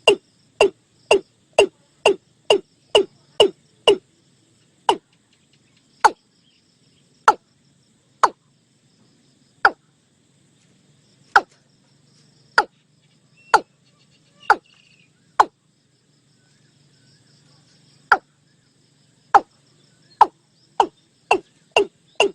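Watercock calling: a series of short, sharp notes, about two a second at first, slowing to one every second or two in the middle, then quickening again near the end, over a faint insect hum.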